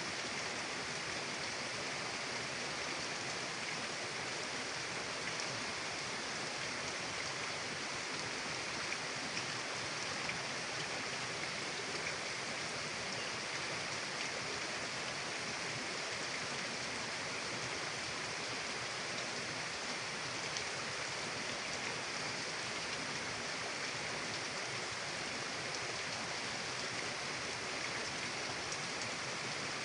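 Mountain river water rushing steadily, as an even, unbroken hiss.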